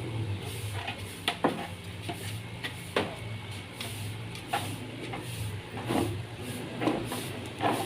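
Irregular sharp knocks and taps of hand carpentry, wood and tools being struck and handled, about seven in all, over a steady low hum.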